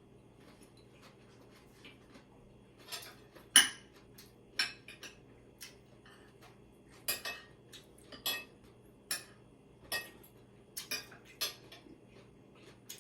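Cutlery clinking against plates and bowls while eating: a dozen or so short, sharp clinks at irregular intervals, the loudest a little over three seconds in.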